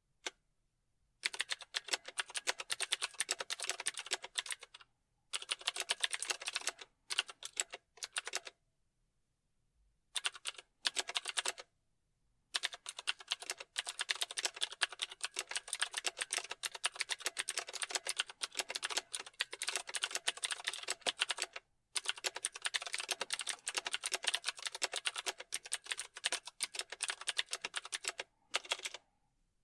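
Fast typing on a keyboard: rapid runs of key clicks in bursts of a few seconds, broken by short pauses, the longest about a third of the way in.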